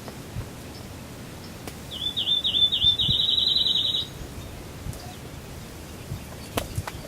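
A songbird singing one phrase about two seconds in: about six slurred, falling notes that run straight into a fast trill, lasting about two seconds.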